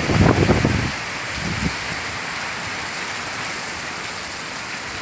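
Heavy rain pouring steadily in a storm, an even hiss, with a low gusty rumble during about the first second that then dies away.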